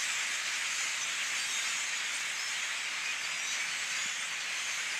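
Dense, steady chatter of a very large flock of birds merging into a continuous hissing din, with faint individual chirps standing out.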